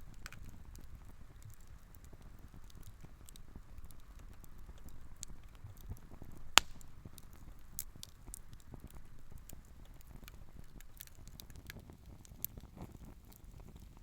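Wood campfire crackling: scattered small pops and ticks over a low rumble, with one loud sharp pop about halfway through.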